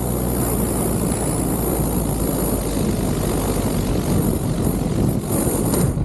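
1954 Cessna 170B's piston engine and propeller running steadily, a loud, even drone with wind noise, with a short click near the end.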